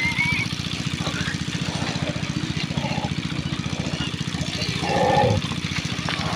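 An engine running steadily at idle, with a short louder sound about five seconds in.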